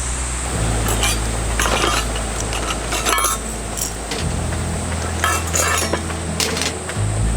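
Repeated clinks and clatter of metal cookware and utensils, over background music with a low, steady bass line.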